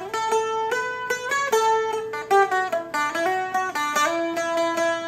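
Seagull Merlin M4, a four-string dulcimer-style instrument, picked in a quick run of single melody notes with a bouncy Celtic lilt.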